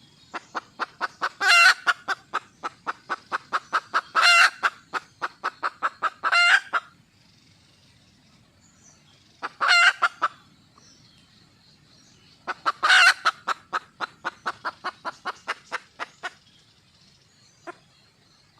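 Red junglefowl hen calling: runs of quick clucks, about three a second, each run broken by louder, higher squawking notes. The calls come in three bouts with short pauses between. This is the call of a wild hen seeking a male.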